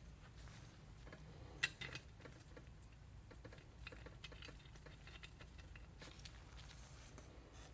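Faint handling noise of small metal turbo parts and bolts: scattered light clicks and taps, with one sharper click about a second and a half in.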